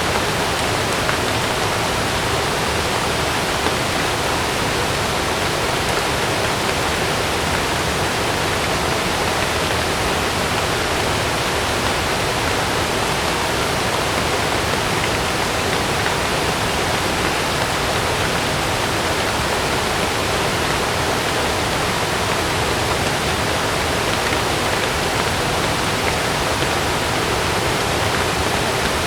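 Heavy rain falling steadily on a camping tent, an even unbroken hiss with no thunder or gusts standing out.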